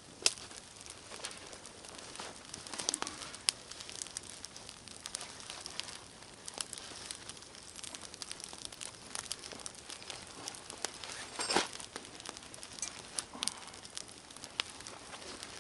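Campfire crackling: irregular sharp snaps and pops over a low hiss, with a louder cluster of crackles past the middle.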